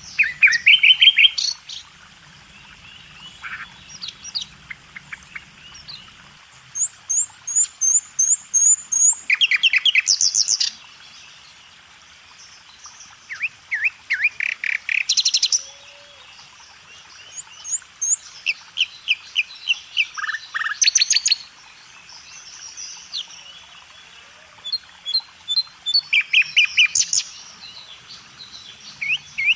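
Small birds chirping: bursts of rapid, high chirps every few seconds, with several different call patterns, some short trills running higher still.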